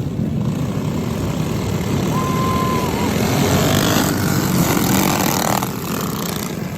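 Small pull-start mini bike engines running at speed, getting a little louder about midway, with a brief thin high tone about two seconds in.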